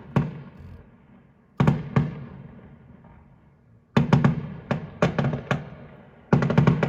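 Fireworks going off: single bangs, then a quick cluster of bangs around the middle and a rapid crackling run near the end, each bang echoing away.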